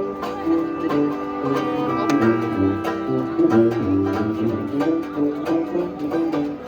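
Traditional New Orleans jazz band playing an instrumental passage, with a tuba bass line stepping from note to note under strummed rhythm chords and held melody notes.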